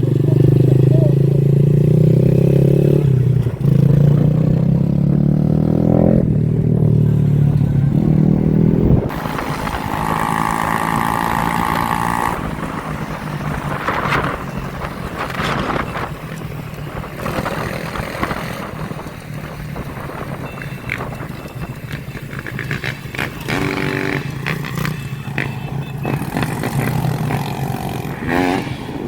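Motorcycle engines running loudly on the road, one accelerating through its gears for the first several seconds, with steps in pitch at each shift, then mixed engine and road noise as the bikes ride on.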